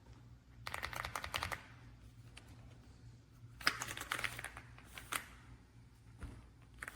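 Typing on an AULA F75 mechanical keyboard with pre-lubed Reaper switches: two quick runs of keystrokes, the first about a second in and the second a little longer, around four seconds in.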